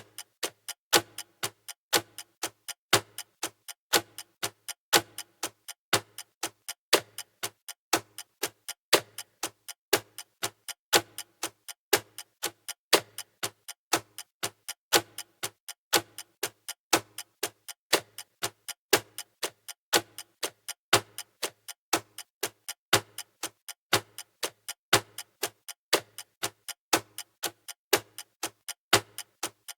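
Clock ticking sound effect of a countdown timer: a steady tick-tock of about two clicks a second, alternating louder and softer.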